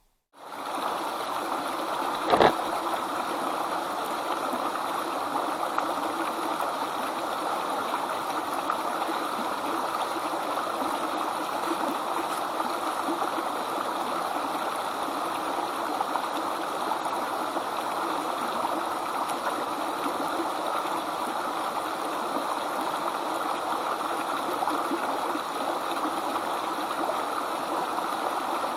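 Steady rushing of flowing water, like a stream, with one sharp click about two seconds in.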